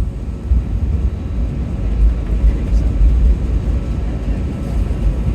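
Low, steady rumble of an airliner, heard from inside the cabin.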